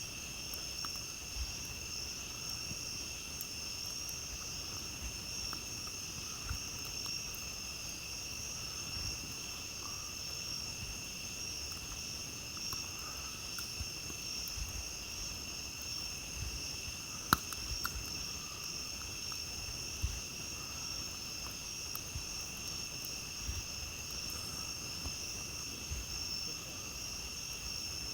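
A steady night chorus of crickets and other insects trilling without a break. Over it come occasional sharp pops and crackles from a campfire, the loudest about 17 seconds in and another about 20 seconds in.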